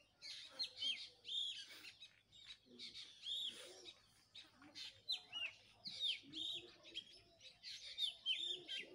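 Small birds chirping: many short, sharp chirps, overlapping and repeated throughout.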